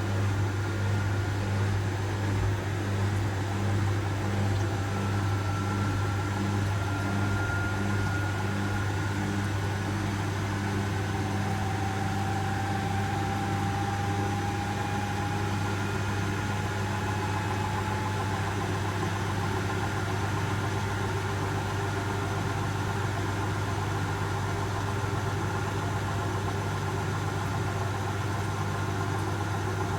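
Asko W6098X front-loading washing machine in its final spin, with the drum turning at high speed. A steady motor hum is overlaid by faint whining tones that slowly rise in pitch.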